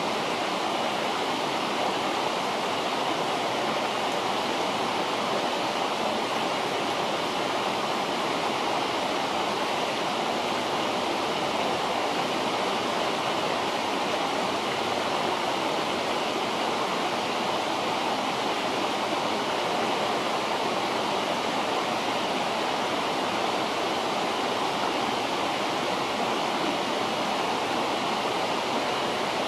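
River water rushing steadily, a continuous even wash of flowing water.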